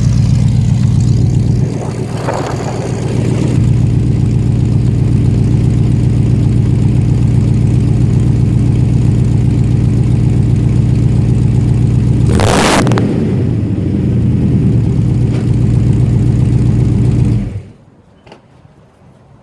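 1997 Chevrolet K1500 pickup's engine running loud and steady on a cold start, breathing through small headers and a 2.5-inch pipe into a Magnaflow muffler. A brief sharp burst comes about twelve seconds in, and near the end the engine sound cuts off suddenly.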